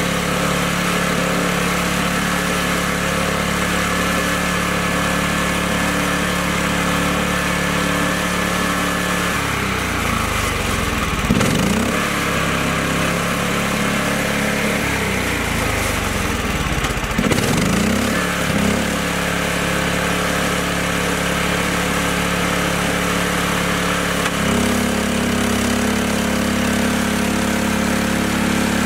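Kubota mini tractor's engine running steadily, labouring with its speed dipping and rising twice partway through, as if straining in mud. It then settles into a steady run at a higher pitch near the end.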